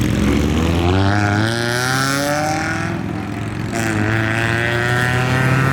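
Car engine accelerating hard, its pitch climbing, then dropping at an upshift just before four seconds in and climbing again through the next gear.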